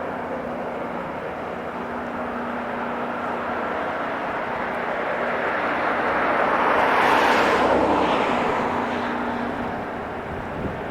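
Rail grinding train passing on the track, its rushing grinding noise swelling to a peak about seven seconds in and then fading, over a low steady hum.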